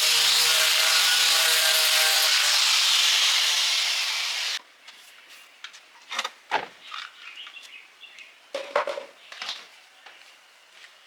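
A power tool running with a steady scraping noise, cutting off suddenly about four and a half seconds in, followed by scattered light knocks and clinks of tools or parts being handled.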